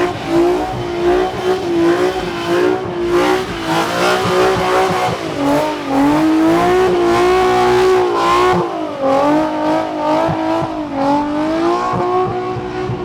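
Car engine held at high revs, its pitch wavering up and down without a break, as the throttle is worked.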